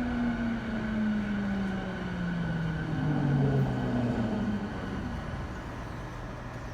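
E217 series electric train's traction motors and inverter whining as it brakes, the tones falling steadily in pitch and dying away about four and a half seconds in as the train slows to a stop. A steady running rumble continues underneath.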